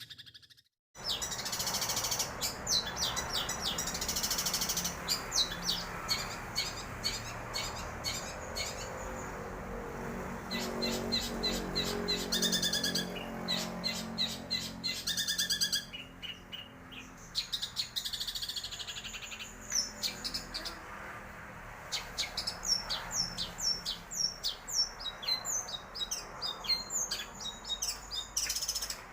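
Long-tailed shrike (cendet) singing in fast, varied runs of sharp chirps and trills. The sound drops out briefly just under a second in.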